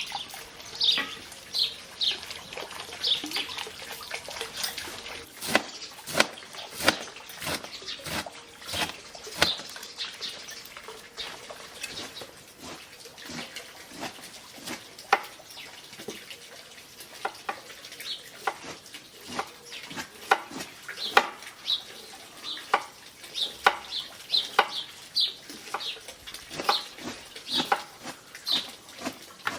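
Water splashing and dripping with many irregular knocks and clicks, while birds chirp.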